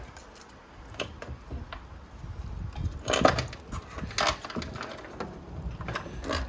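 Scattered small clicks and light knocks of cable connectors being unplugged from an iMac's motherboard and the loose parts being handled.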